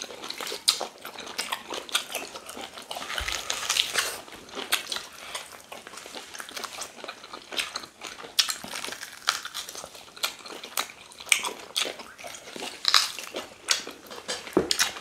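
Close-up mouth sounds of two people biting and chewing stewed meat from ogbono soup: an irregular run of wet smacks and clicks.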